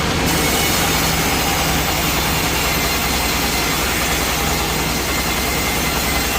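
Sawmill machinery running steadily: a low engine drone under a dense hiss.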